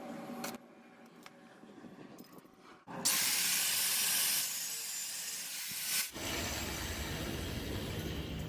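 Electric welding arc hissing steadily, starting suddenly about three seconds in; just past halfway it changes abruptly to a somewhat quieter, rougher hiss with a low rumble.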